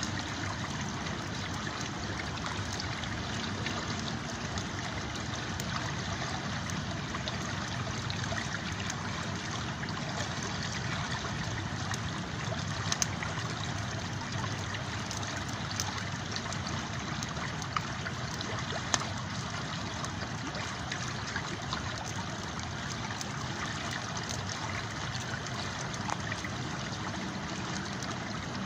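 River water flowing steadily, with a campfire's sharp crackles and pops scattered through it, a few louder pops standing out in the middle.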